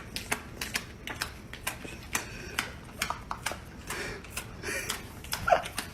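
Irregular light clicks and taps, a few a second.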